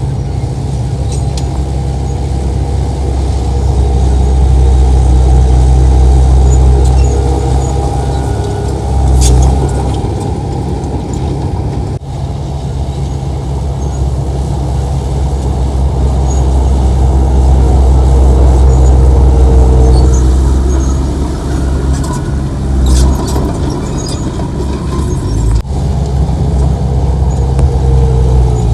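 Heavy diesel earthmoving machinery, a bulldozer and dump trucks, running under load with a deep steady rumble. The level swells and eases several times, with a few short clicks and knocks.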